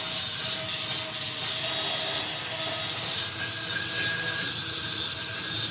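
Steady rasping power-tool noise with a faint constant whine, without a break.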